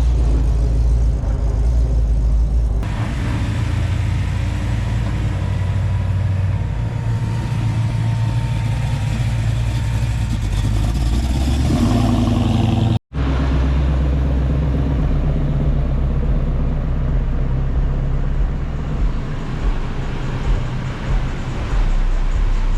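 Car engines running loud and low, with a brief dropout about thirteen seconds in where the footage cuts.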